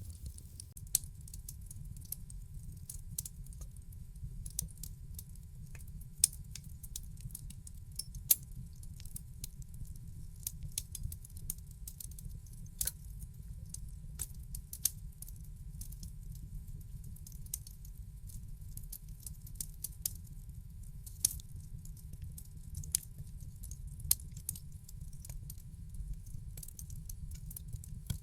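Wood fire crackling in a fireplace: a steady low rumble of burning with frequent irregular sharp crackles and a few louder pops.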